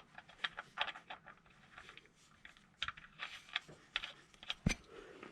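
Irregular light clicks and taps, with one sharper knock a little past the middle, as a part is refitted by hand on the ATV.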